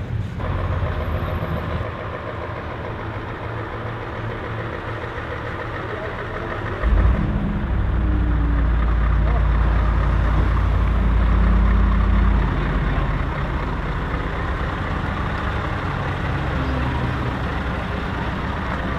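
Heavy truck engines running, with a louder, deeper engine rumble from about seven seconds in that eases off about five seconds later, under background voices.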